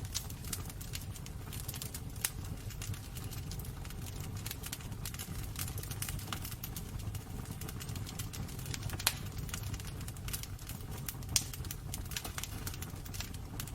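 Wood fire burning in a fireplace: a steady low rumble with irregular crackles and pops, two of them louder in the second half.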